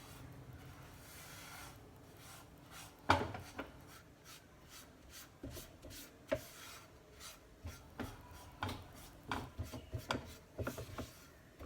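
A spatula scraping and stirring whole wheat flour as it dry-roasts with a little ghee in a pan. It makes irregular scraping strokes and short knocks from about three seconds in, the first knock the loudest.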